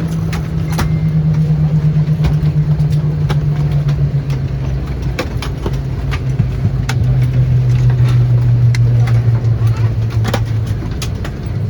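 Airbus A320-200 cabin with a steady low engine hum that falls slowly in pitch and fades near the end, under scattered clicks and knocks.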